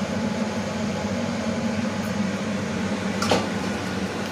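Heavy rain falling in a steady hiss, with a single sharp click about three seconds in.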